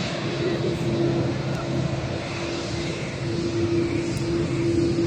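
Jet engines of a wide-body airliner taxiing past at low power: a steady hum over an even rushing noise.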